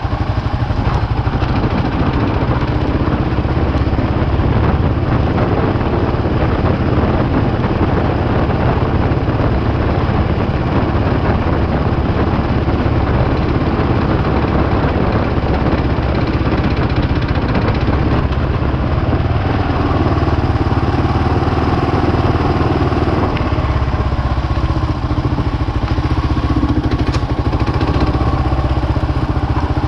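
A 650 single-cylinder dual-sport motorcycle engine running steadily.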